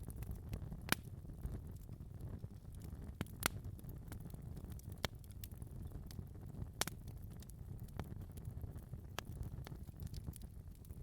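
Wood fire in a fireplace crackling: a steady low rumble of the burning fire with irregular sharp pops and snaps, a few of them louder, about one, three and a half and seven seconds in.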